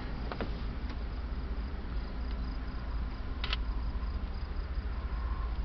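Crickets chirping in a steady pulsing trill over a low steady hum, with a few faint clicks: two right at the start and one about three and a half seconds in.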